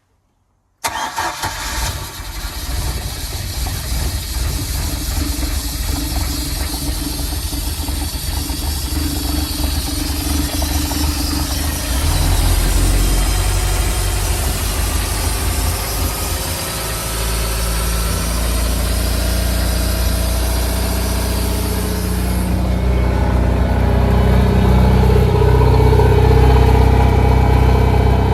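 Mercruiser 3.0L 135 hp four-cylinder petrol inboard engine running at idle, coming in suddenly about a second in. Its low rumble grows stronger about twelve seconds in, and the higher hiss falls away a little past twenty-two seconds.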